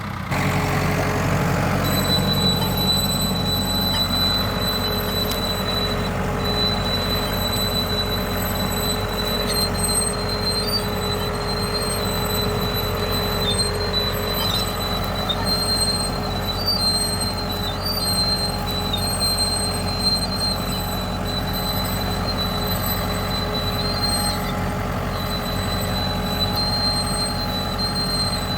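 Ford 6600 tractor's three-cylinder diesel engine running steadily under load while plowing, with a thin high-pitched squeal over it that shifts up and down slightly in pitch. The engine gets louder right at the start.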